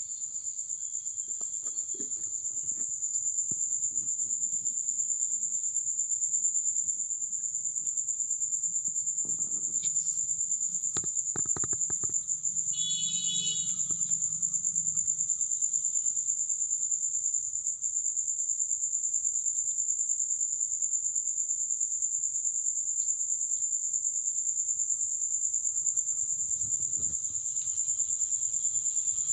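Crickets chirring in a steady, high-pitched continuous trill, with a few faint knocks about a third of the way in.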